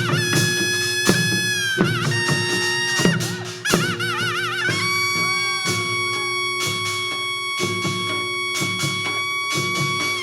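Korean traditional music accompanying a Jindo drum dance: a wind instrument plays a melody with wide, wavering vibrato, settling about five seconds in on one long held note, over regular drum strokes.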